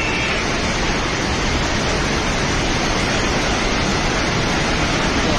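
Floodwater of a swollen river rushing past as one steady, unbroken roar of water.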